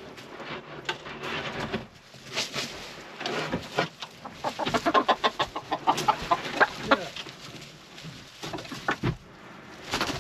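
Hens clucking, with a fast run of short clucks through the middle.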